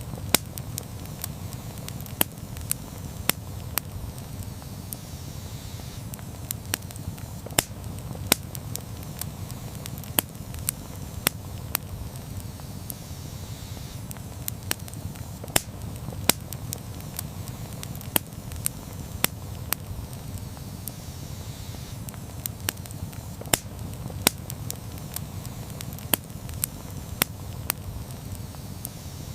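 Campfire burning, with a steady low rush of flames and frequent sharp crackles and pops at irregular intervals.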